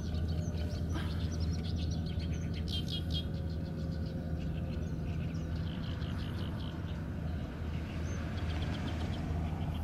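Small birds chirping in several runs of rapid repeated notes, the loudest about three seconds in, over a steady low background hum.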